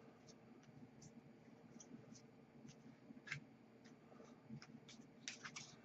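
Near silence with faint, scattered light clicks and rustles of hockey trading cards being handled and flipped through, a small cluster of them near the end.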